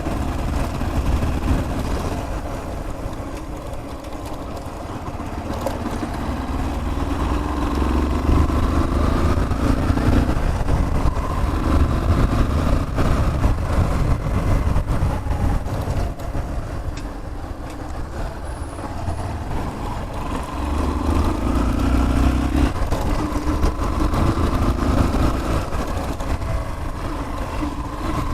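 Yamaha Fazer 150 single-cylinder motorcycle engine running on the move, with wind rumble. Its pitch climbs and drops twice as the bike accelerates and changes gear.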